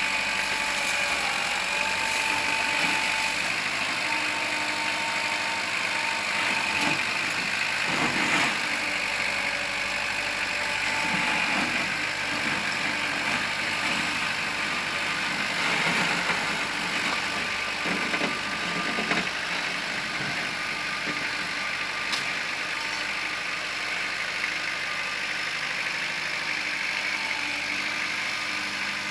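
Kubota L4600 tractor's diesel engine running steadily under work, with a few brief clunks about a third and a half of the way through.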